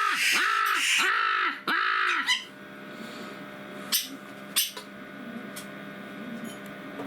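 Jackdaw calling: a quick run of harsh, repeated calls in the first two seconds or so. About four seconds in come two sharp clicks.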